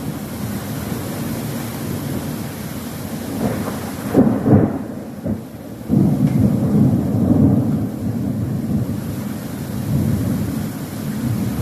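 Thunderstorm: low rolling thunder over rain, with louder peals about four seconds in and again from six to eight seconds.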